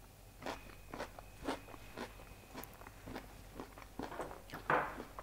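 Close-up chewing of a mouthful of crunchy salad: a run of crisp crunches, roughly two a second, with the loudest one near the end.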